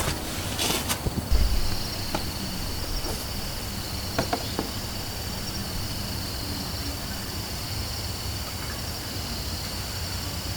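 Insects chirping in a steady high-pitched chorus that sets in about a second in, with a few faint clicks about four seconds in.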